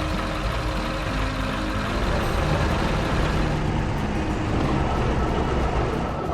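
A steady vehicle engine sound effect running under background music.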